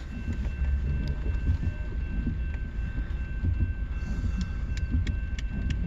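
Steady low rumble of rail and road vehicles heard from inside a car at a grade crossing. A few faint clicks come near the end.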